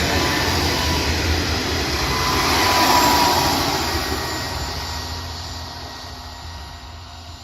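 Freight train passing: a rumbling rush that swells to its loudest about three seconds in, with a thin whine at the peak, then fades steadily as the train draws away.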